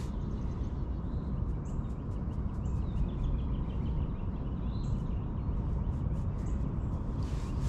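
Steady low outdoor rumble with faint bird chirps scattered through it, and a brief rushing hiss near the end.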